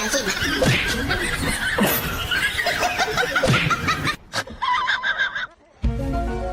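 People laughing and snickering. The laughter cuts off about four seconds in, and after a brief pause, music with held notes starts near the end.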